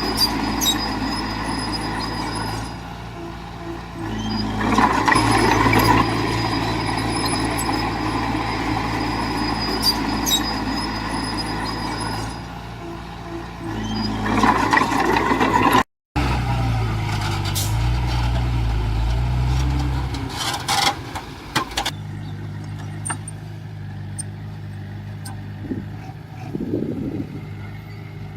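Diesel engines of heavy earthmoving machines running, swelling louder twice as they work under load. About halfway through the sound breaks off abruptly and gives way to a different engine with a wavering pitch, which then settles to a quieter run.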